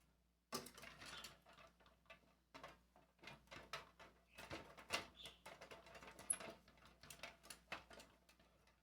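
Faint, irregular clicks and light taps from a freshly assembled rotating perfume organizer being handled and tried out.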